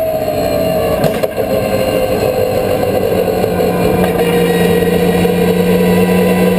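Subaru Impreza time attack car's turbocharged flat-four engine running hard. Its note falls in the first second, two sharp clicks come about a second in, and then the note holds steady and rises slowly.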